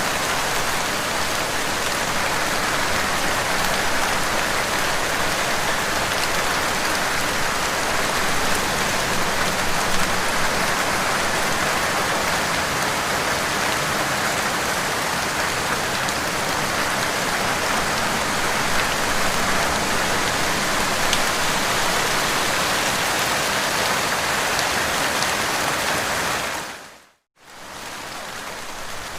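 Steady, dense rain falling and pattering on a surface. About 27 seconds in it fades out to a moment of silence, then comes back quieter.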